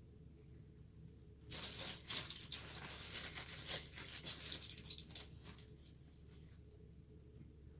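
Rustling and clicking handling noises, irregular with a few sharp clicks, for about four seconds starting about a second and a half in.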